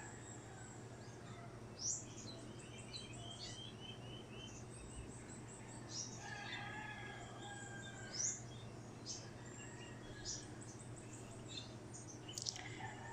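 Small birds chirping and trilling here and there in the background, with short high calls scattered throughout, over a faint steady low hum.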